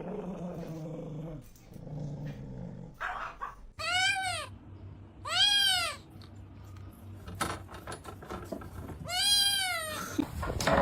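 A cat meowing three times, each a long call that rises and then falls in pitch.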